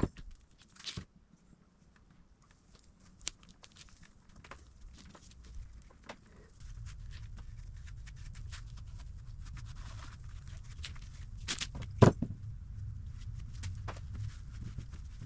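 Scattered clicks and knocks of suspension parts being handled while the upper control arms are assembled, with one louder knock about twelve seconds in. A low steady hum sets in about halfway through.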